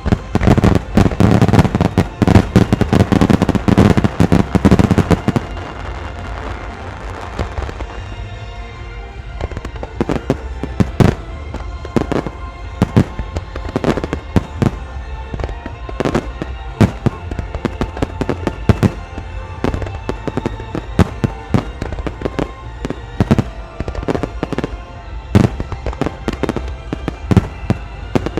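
Fireworks display: a dense barrage of bursts and crackling for about the first five seconds, then a steady run of separate sharp bangs, with music playing underneath.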